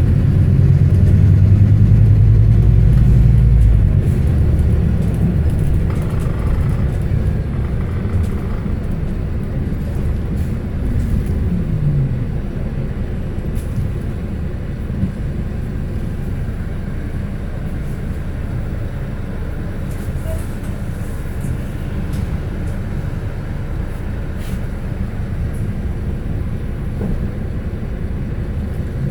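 Scania K320HB city bus under way with its diesel engine running, a steady low rumble with road noise. It is loudest for the first few seconds, the engine note drops once about eleven seconds in, and then it settles into an even cruise.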